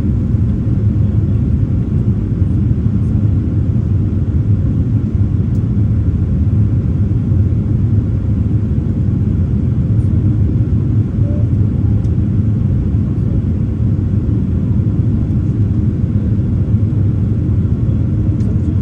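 Boeing 787-9 jet airliner's engines and airflow, a steady low rumble with no change in pitch or level, typical of the climb after takeoff.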